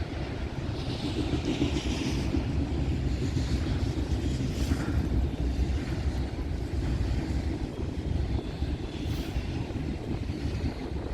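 Norfolk Southern freight train rolling past at trackside: a steady low rumble, with brief higher squeals or hisses about a second in and again near five seconds.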